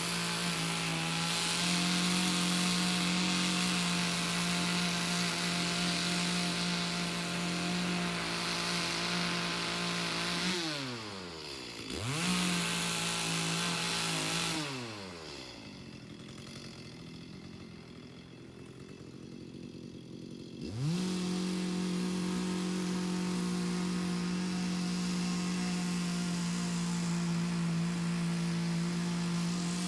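Chainsaw cutting logs at full throttle. About a third of the way in it drops back to idle, with one short blip of throttle. About two-thirds in it revs back up and holds a steady high pitch.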